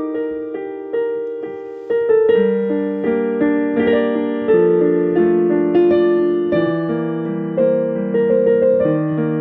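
Solo piano playing a slow, gentle melody, each note struck and left to ring away. Lower bass notes join about two seconds in, filling out the texture.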